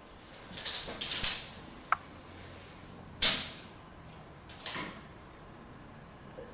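Steel tape measure being pulled out and handled across the opening: a few short scraping rattles, a sharp click about two seconds in, then two sharp rattles about a second and a half apart.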